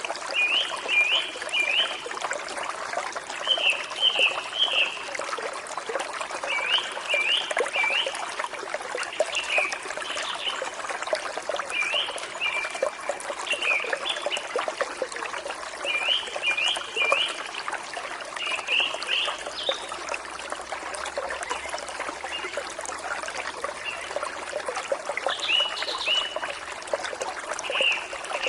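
A forest stream trickles steadily. Over it a bird repeats a short song of a few quick high notes, every two to three seconds, with a longer pause about two-thirds of the way through.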